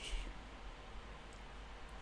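Quiet background with a faint steady low hum and light hiss.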